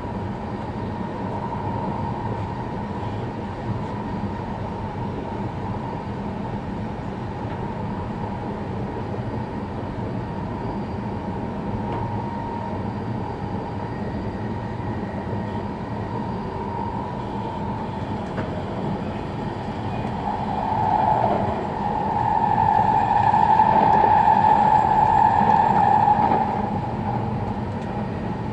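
E5 series Shinkansen train running, heard from inside a passenger car: a steady running rumble. From about twenty seconds in it grows louder for several seconds with a high ringing tone, then settles back.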